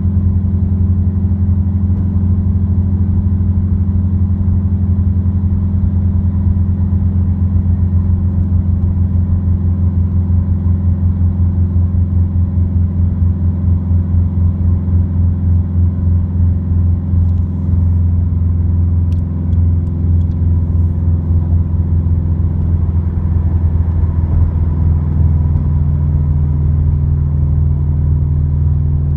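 Subaru WRX with an Invidia dual N1 exhaust, cruising and heard from inside the cabin: its turbocharged flat-four gives a steady low exhaust drone. Through the middle the drone swells and throbs rhythmically, and near the end its pitch shifts slightly.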